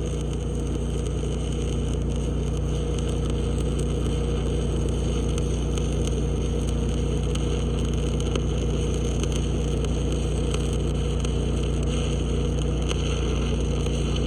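Stick welding arc with a 7018 rod crackling and sizzling steadily over a low electrical hum. The arc is spattering and not digging in well because the steel is rusty.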